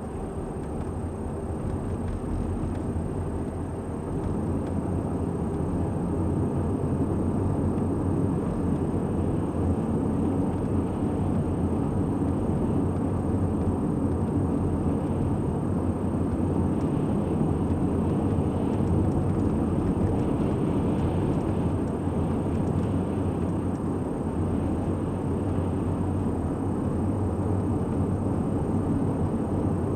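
Car driving at a steady speed, a continuous low rumble of road and engine noise that builds slightly over the first few seconds.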